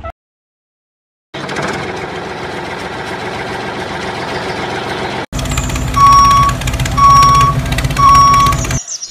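A vehicle engine running with a rough, noisy sound. After an abrupt cut about halfway through, a truck engine runs steadily while a reversing alarm beeps three times, about once a second.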